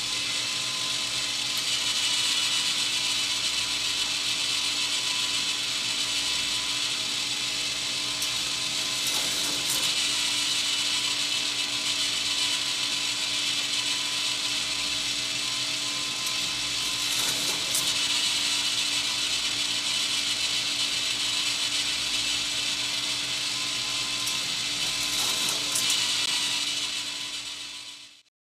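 K'nex plastic roller coaster model running: its motorized lift clatters steadily with a constant motor hum, and a louder rattle comes about every eight seconds as the car runs the track.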